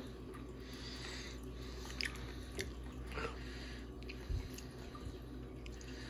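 A young child chewing a mouthful of salad, faint, with a few short clicks and a soft low thump a little past four seconds in.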